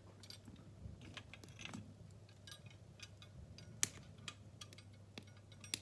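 Kindling and coal burning in an open fireplace, giving off small irregular crackles and pops, with a sharper crack about four seconds in and another near the end.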